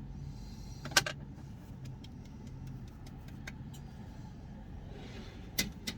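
Steady low hum of a car idling, heard from inside the cabin, with a sharp click about a second in, another near the end, and a few faint ticks between.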